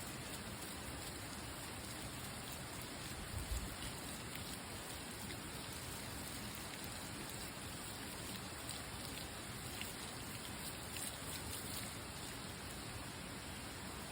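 Steady rain falling, an even hiss with faint scattered drop ticks. A brief low thump comes about three and a half seconds in.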